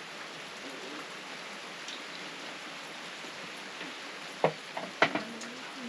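Steady hiss of rain falling on a surface, with two sharp knocks about half a second apart, roughly four and a half seconds in.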